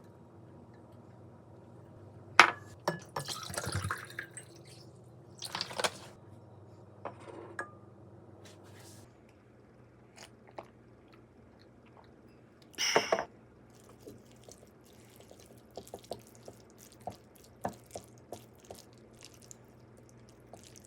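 Kitchen handling sounds: scattered clinks, knocks and taps of utensils and dishes, the loudest about two and a half seconds in and again near thirteen seconds, over a low steady hum that cuts off about nine seconds in.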